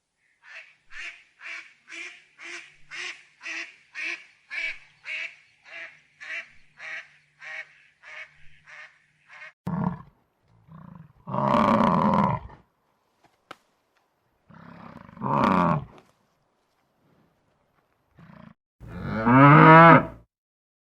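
A quick run of short waterfowl calls, about two a second, followed by three louder, longer animal calls; the last is the loudest and falls in pitch.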